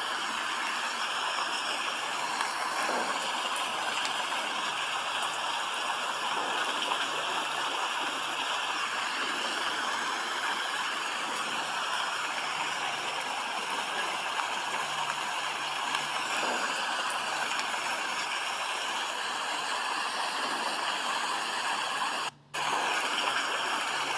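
Steady rainfall, an even hiss of falling rain that cuts out for a split second near the end.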